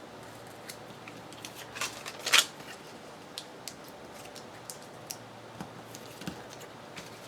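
Paper and small craft tools handled on a work table: scattered light clicks and taps, with a short crinkling rustle, the loudest sound, about two and a half seconds in.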